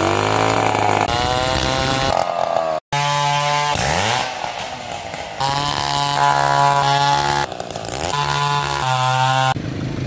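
Two-stroke chainsaw running at high revs while cutting wood straight from felled trees. Its engine pitch sags and climbs as it works, and the sound breaks off abruptly several times.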